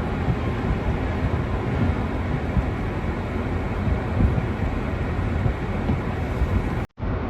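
Steady low rumbling noise of wind buffeting the microphone in a snowstorm, broken by a sudden split-second dropout near the end.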